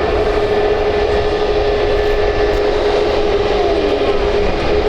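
Jet airliner's engines running, a steady whine over a low rumble.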